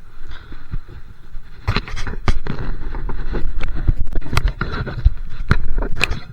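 A bike in motion, with a steady low wind-and-road rumble. From a little under two seconds in come a dense run of sharp knocks and rattles, like the bike and its mount jolting over bumps.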